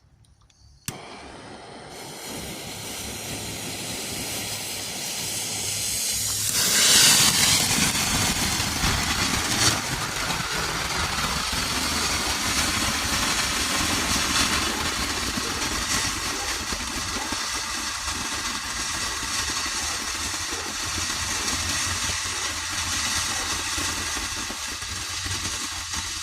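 Small firework fountain burning: a click, then a spraying hiss that builds, surges loudest about seven seconds in and keeps going strongly with a light crackle.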